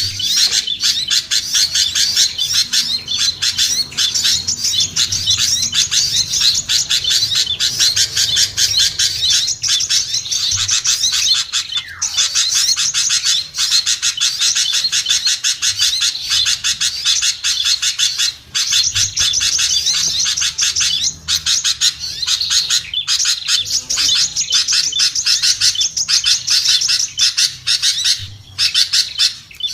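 Bird-luring recording of small songbirds chattering and scolding: a dense, continuous, high-pitched twittering of rapid notes. It is a lure call meant to bring down small birds that are hard to attract.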